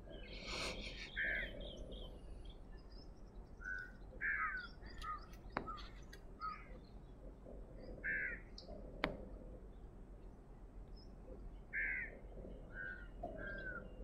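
Birds calling: a series of short calls, repeated every second or so and often overlapping, many bending downward in pitch. Two sharp clicks come in the middle.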